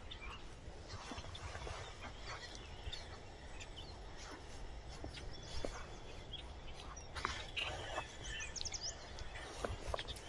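Quiet riverside ambience: a low steady rumble with scattered small clicks, and a few short bird chirps about eight to nine seconds in.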